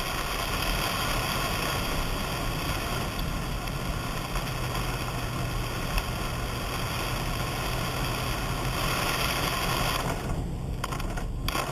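Steady road noise of a car being driven on a wet road in rain, heard from inside: a constant engine hum under an even tyre and rain hiss. The hiss briefly drops away near the end.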